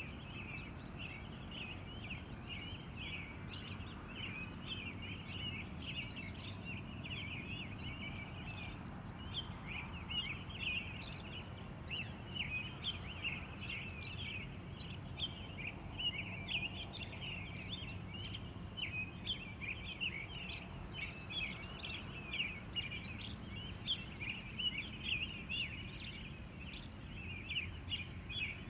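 Early-morning chorus of wild birds, many short chirps overlapping without a break, with a few higher trills at about 6 and 21 seconds in. A steady high-pitched hum and a low background rumble run underneath.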